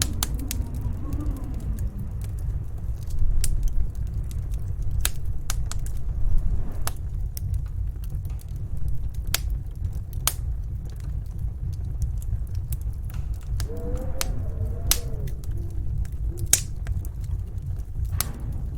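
Wood fire crackling with scattered sharp pops over the steady low rumble of snowstorm wind. The wind rises into a wavering howl at the start and again about 14 seconds in.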